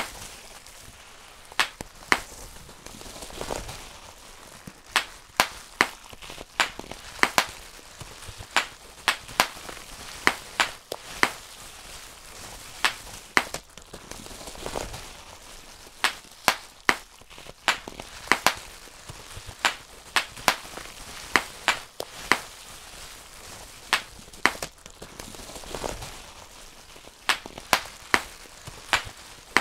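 Bubble wrap being popped one bubble at a time by hand: sharp, irregular pops, about one or two a second and now and then a few in quick succession, over a faint crinkling of the plastic sheet.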